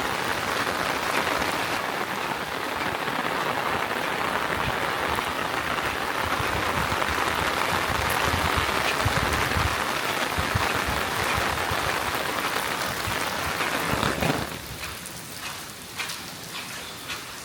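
Steady, heavy rain hiss. About fourteen seconds in it drops off sharply to a much quieter patter with scattered drips.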